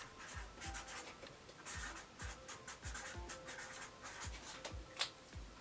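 Writing a label by hand on a storage box: a run of short, scratchy pen strokes.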